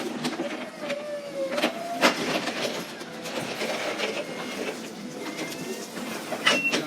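Inside a moving lorry's cab: a steady running noise with scattered clicks and rattles, and a short tone that slides in pitch about a second in.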